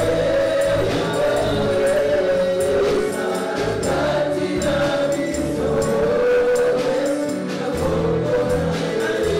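Congolese gospel praise song: a choir singing together over a band with bass and a steady percussion beat.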